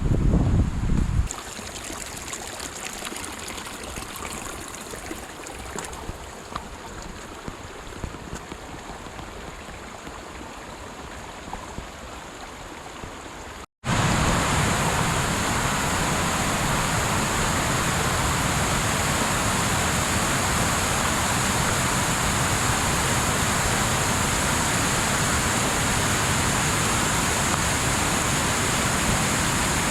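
Steady rush of a mountain stream or cascade, loud and even through the second half. It follows a quieter stretch of open-air hiss with a few faint ticks, opening with a brief blast of wind on the microphone.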